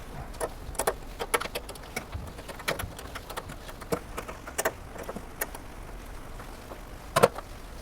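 Irregular light clicks, taps and rustles from hands winding woven exhaust wrap around an exhaust pipe, with a louder double knock near the end.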